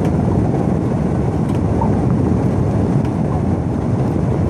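Pickup truck in four-wheel-drive low, engine running and tyres pushing through fresh powder snow, heard from inside the cab as a steady low rumble.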